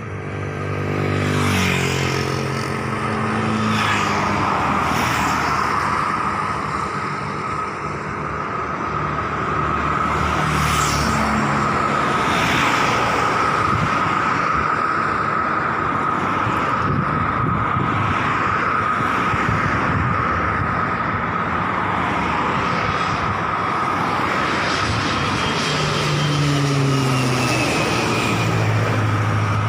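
Aircraft turbine engine running with a steady high whine over a low rumble whose pitch shifts in steps.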